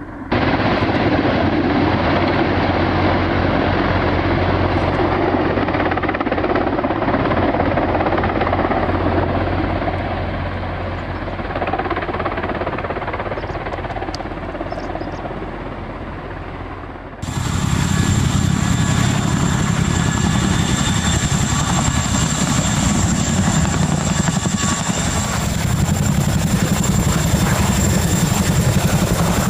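Helicopter running, engine and rotor noise without a break. About two-thirds of the way through it switches abruptly to a louder helicopter sound with a steady high whine over it.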